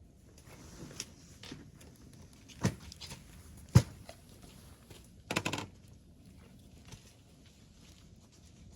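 A few sharp knocks, the loudest about four seconds in, then a short rattling clatter a little after five seconds.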